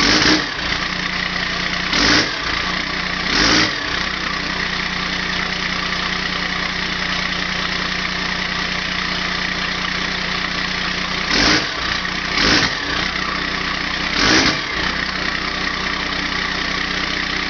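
1994 Dodge Cummins 5.9-litre inline-six turbo diesel with a straight-piped exhaust idling cold, blipped six times in two groups of three with short revs. It is still warming up after a winter cold start.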